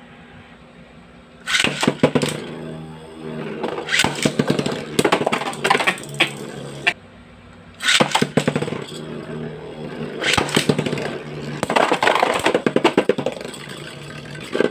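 Spinning Beyblade Metal Fight tops, Lightning L-Drago 100HF against Thermal Lacerta WA130HF, in a stadium: a steady spinning hum with rapid clacks as the metal wheels hit each other. It comes in two bouts, the first starting suddenly about a second and a half in and cutting off abruptly near seven seconds, the second starting about eight seconds in.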